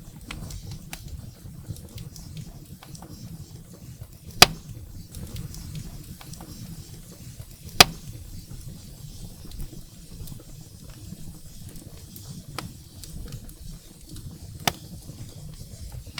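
Wood fire burning in a fireplace: a steady low rumble and hiss with scattered small crackles, and three sharp loud pops from the burning firewood, about four seconds in, nearly eight seconds in and near the end.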